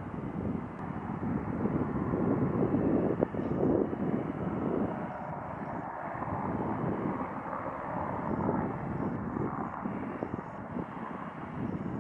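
Jet airliner engines rumbling at a distance, a steady noise that swells a little about three seconds in and then settles.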